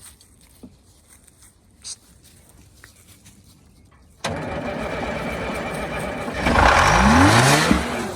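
The old diesel engine of a 1971 Insley excavator being cranked on its starter, then briefly catching, its speed rising sharply for about a second before it stops.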